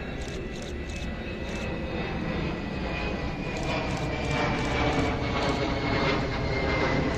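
Train approaching, its wheels clicking repeatedly over rail joints, with a low rumble and a high steady whine that falls slowly in pitch as the sound grows louder.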